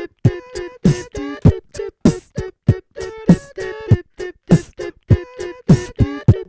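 Beatboxing: a steady beat of mouth-made kick drum and snare sounds, with short hummed notes in between.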